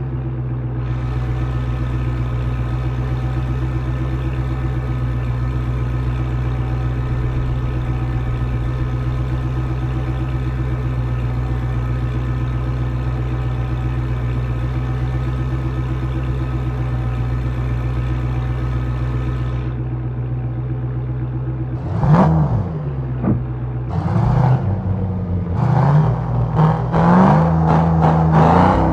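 Muscle car engine idling steadily with a deep even note, then blipped once after about twenty seconds and revved several times in quick succession near the end.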